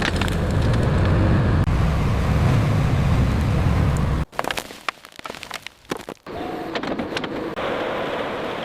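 A heavy vehicle's engine running with a deep, loud rumble that cuts off abruptly about four seconds in. Scattered clicks and crackles follow, then a steadier, quieter mechanical noise.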